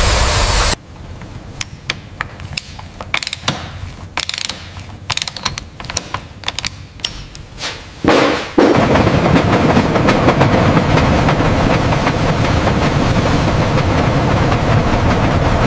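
Irregular sharp mechanical clicks and knocks, like metal parts being worked, then a loud, steady rushing mechanical noise that starts about eight seconds in.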